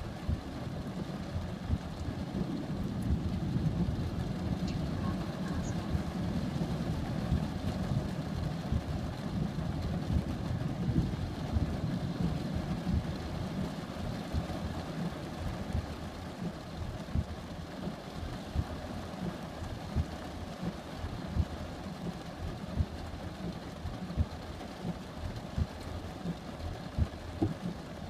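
Thunderstorm ambience: a low rolling rumble that swells over the first few seconds and slowly fades, with scattered short sharp pops in the second half.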